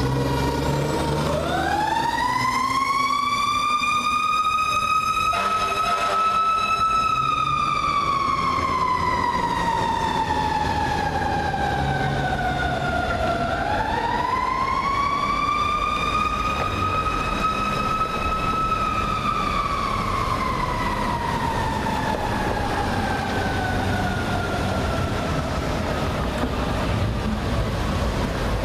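Fire engine's Federal Q mechanical siren winding up slowly to a high wail, holding, then coasting down. It winds up again about halfway through and coasts down to the end. A short air horn blast comes about five seconds in, over the truck's engine rumble.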